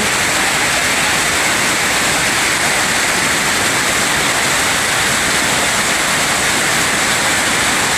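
Steady, loud rush of a flooded river's water, an even noise without a break.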